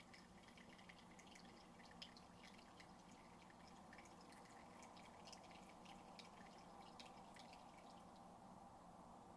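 Last of an espresso dripping from a Jura C9 automatic coffee maker's spout into the cup at the end of a brew: faint irregular drips over a low steady hum. The drips stop near the end.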